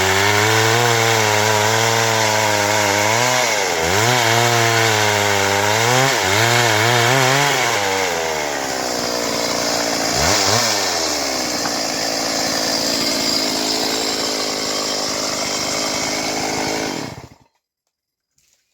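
Stihl MS 382 two-stroke chainsaw running at high revs in several surges, dipping between them, then running steadier until the sound cuts off suddenly near the end.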